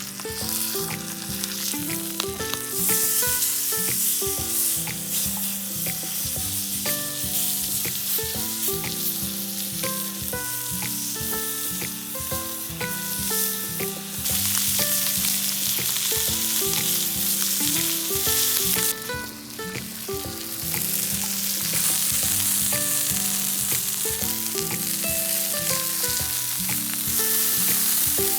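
Food sizzling in a hot frying pan, the sizzle swelling louder in stretches, over background music of short plucked notes.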